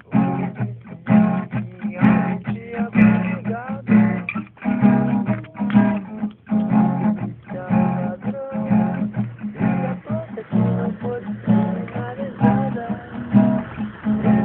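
Acoustic guitar being strummed in a steady, repeating rhythm.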